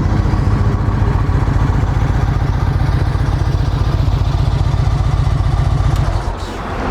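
2007 Yamaha Stratoliner's V-twin engine idling steadily through a 2-into-1 performance exhaust, running smoothly just after a clean start. The low engine note drops away about six seconds in.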